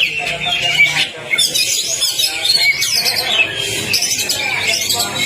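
Oriental magpie-robin (kacer) singing a fast, unbroken stream of varied whistles, quick trills and harsh chattering notes.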